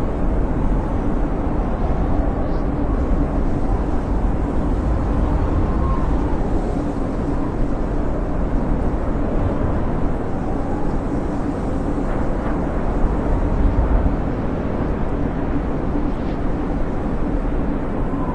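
Snowstorm wind howling steadily: a deep, even rumble with a faint whistling tone that wavers in pitch.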